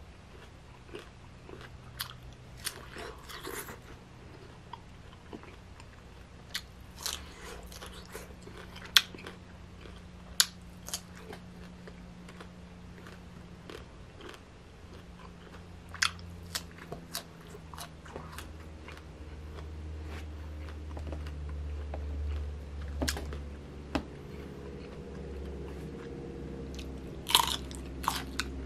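Close-up chewing and crunchy bites of firm, sour green mango slices, with scattered sharp crunches. Near the end comes a louder crunchy bite into a pickled cucumber.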